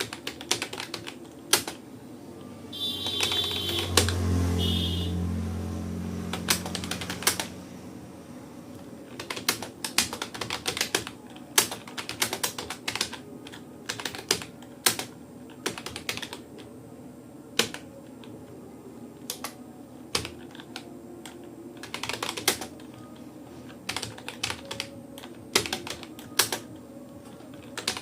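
Keys clacking on a Rapoo computer keyboard in uneven runs with short pauses, as in steady typing of a passage. Between about three and seven seconds in, a louder low drone with a few high squeaky tones swells and fades under the typing.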